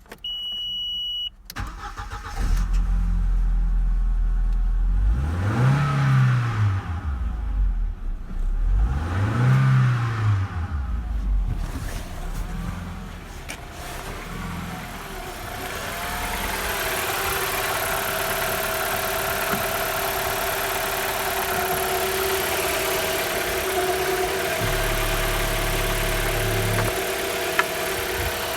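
A short beep, then the Audi A4 B5's 1.6-litre ADP petrol inline-four starts about two seconds in. It is revved up and back down twice, then settles to a steady idle.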